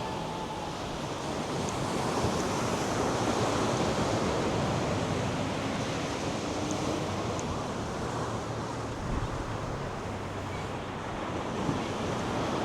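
North Sea surf washing onto a sandy beach, a continuous rush of breaking waves that swells a little a few seconds in, with wind buffeting the microphone.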